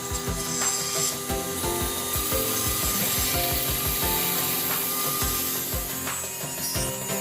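A tool scraping across wood with a steady rasping noise, under background music with a regular beat.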